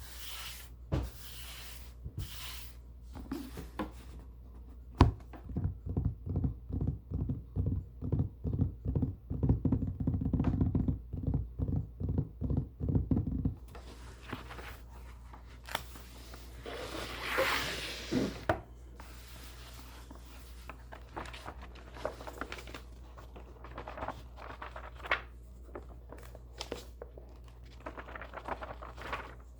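Books being handled: a run of soft, low taps about three a second for several seconds, then a brief rustle of paper or cover, then scattered light taps and scratches.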